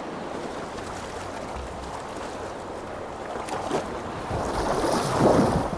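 Sea and boat noise: water washing steadily, with splashing that grows louder over the last two seconds.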